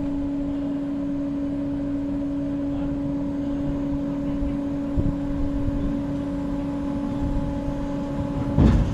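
Steady machine hum with a low rumble, from a theme park ride's machinery running. There is a short loud burst near the end.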